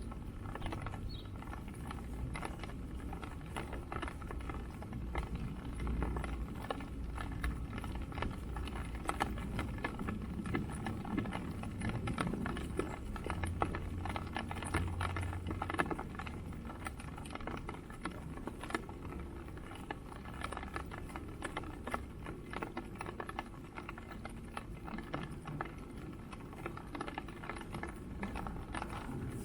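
Steady run of footsteps on wet, muddy ground, many small irregular impacts, over a fluctuating low rumble of wind on the microphone.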